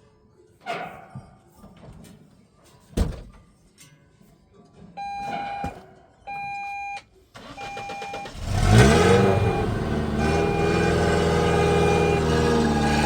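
A few knocks, then two long electronic beeps. A vehicle engine starts about two-thirds of the way in and keeps running steadily, with short beeps repeating about once a second.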